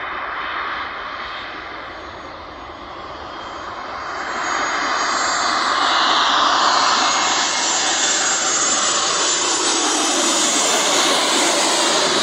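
Jet airliner engines during a landing, a loud steady roar that swells about four seconds in and stays loud, with a whine whose pitch falls.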